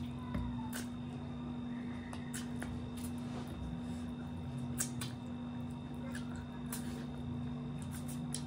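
Close-up eating sounds of rice and fish curry eaten by hand: wet chewing and mouth smacks with scattered sharp clicks, over a steady low hum.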